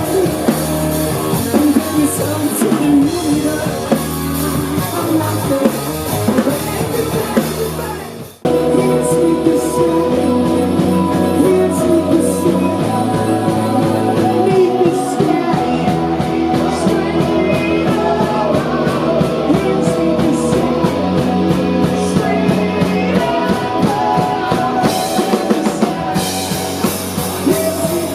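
Live rock band playing loud, with drums, guitar and singing. About eight seconds in the sound cuts off abruptly and another passage of band music starts at once.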